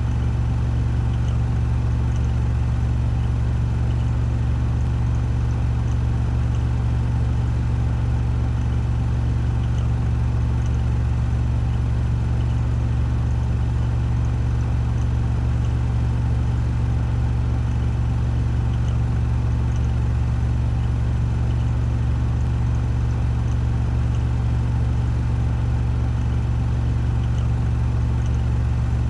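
Washing machine drum spinning at 1400 rpm on its spin cycle: a steady low hum that keeps an even pitch and level.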